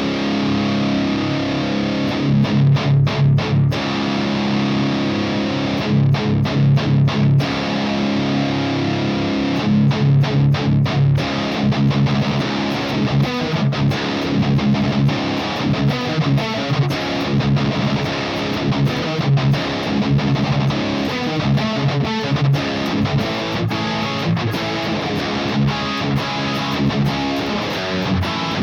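Electric guitar (Ernie Ball Music Man Monarchy Majesty) through the blue channel of a Mesa TC-100 tube amp, recorded direct through a cab simulation. It plays distorted metal rhythm riffs, ringing chords broken by runs of fast staccato chugs, without boost.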